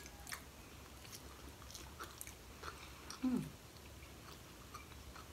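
A person chewing a crab stick maki sushi roll, with soft, scattered mouth clicks and smacks. About three seconds in there is a short hum that falls in pitch.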